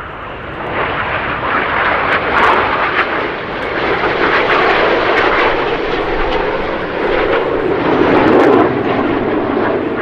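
BAE Hawk T1 jet trainers flying past, a loud jet roar whose pitch drops steadily in the second half as they go by.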